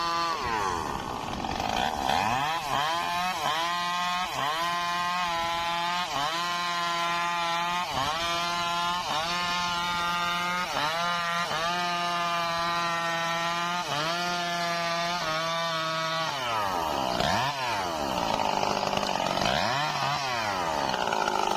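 Stihl MS 382 two-stroke chainsaw cutting rain tree (trembesi) wood at full throttle, its pitch steady with brief small dips. Near the end the engine drops and rises in pitch several times as the throttle is eased off and opened again.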